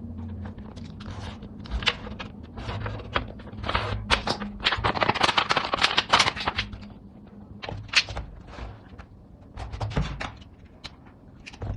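Thin aluminium drink-can metal being handled and worked by hand: a run of sharp clicks and snaps, with a denser crinkling scrape about halfway through.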